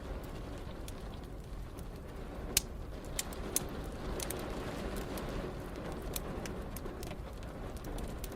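Wood fire crackling, with scattered sharp pops over a steady low rush of rain. The loudest pop comes about two and a half seconds in.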